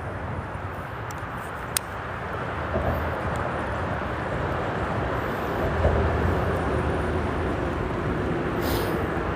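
Freeway traffic on the bridge overhead: a steady rush that grows louder a couple of seconds in, with a heavier low rumble swelling around the middle. One sharp click just before two seconds in.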